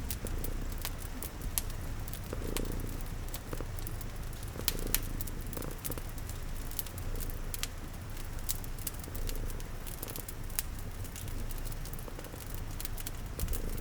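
A cat purring steadily, layered with a crackling fire that gives irregular sharp pops and steady rain pattering.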